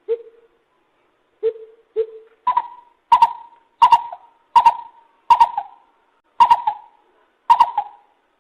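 Lesser coucal calling: three low hollow notes, then a run of seven louder, higher hoots about one every 0.7 to 1 seconds.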